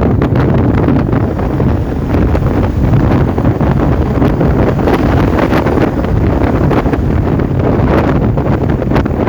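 Loud, steady wind buffeting the microphone on a moving motorcycle, mixed with the motorcycle's running and road noise.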